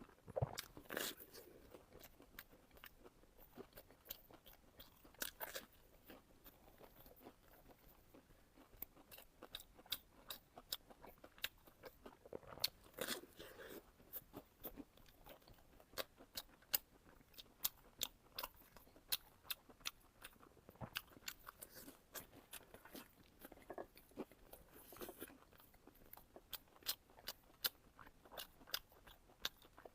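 Close-miked eating: steady chewing of crunchy food, with many sharp little crunches and mouth clicks. Louder bites come about a second in, around five seconds, around thirteen seconds and around twenty-five seconds.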